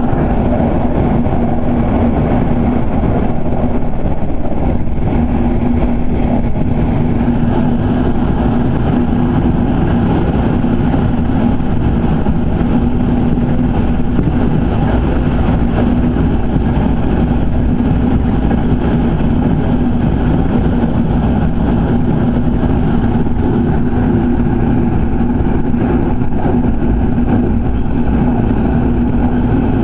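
Electric commuter train running at a steady speed, heard from inside the car: continuous rolling noise of the wheels on the rails with a steady low hum.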